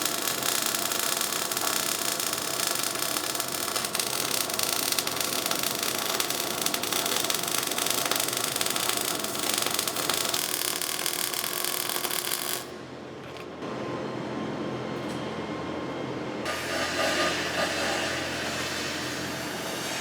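Semi-automatic (MIG) welding arc crackling steadily, cutting off sharply about two-thirds of the way through; a few seconds later a different steady, noisy shop sound starts.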